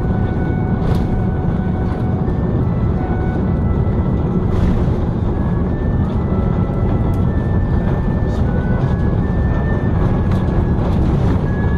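Steady, loud rumble inside the cabin of an Airbus A330-300 with Rolls-Royce Trent engines, from its engines and airflow around landing, with faint brief high whines now and then.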